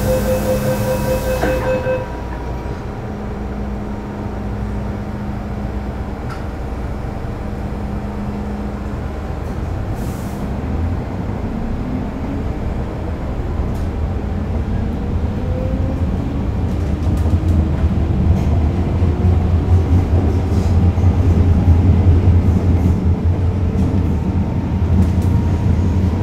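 A train running: a low rumble that grows louder through the second half, with a whine rising in pitch near the middle, as when it picks up speed. A beeping tone sounds during the first two seconds.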